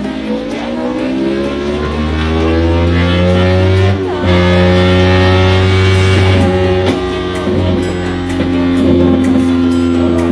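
Superbike engine revving through its exhaust, its pitch climbing over the first four seconds, then held high and steady with a few small steps in pitch.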